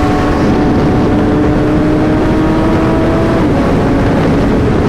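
Sportbike engine pulling at steady speed with wind rushing past the microphone; the engine note climbs slightly, then drops about three and a half seconds in as the revs fall.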